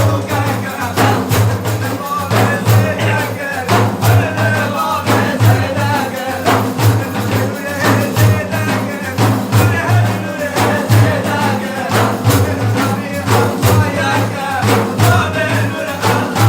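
Madih religious praise singing: a man chanting over frame drums beaten in a steady rhythm.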